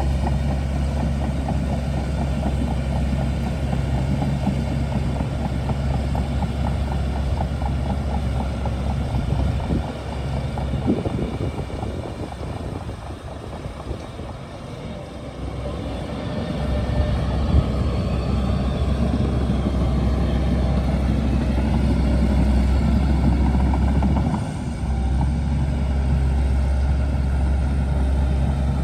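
Shantui DH17C2 bulldozer's diesel engine running under load with a steady low drone; it eases off from about ten seconds in, then picks up again about six seconds later, with a short dip near the end and a couple of sharp knocks.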